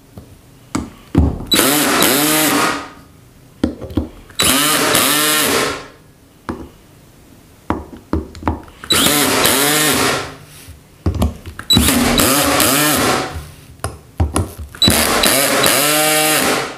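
Cordless power screwdriver driving the cover screws of an LPG reducer, running in five short bursts of a second or so each, its motor pitch rising and falling as each screw draws tight, with small clicks in between.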